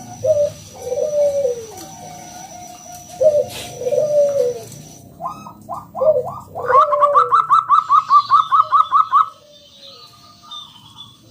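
Zebra dove (perkutut) calling: a run of low, rolling coos, then a quick series of short, higher notes about six a second that stops a little past nine seconds in.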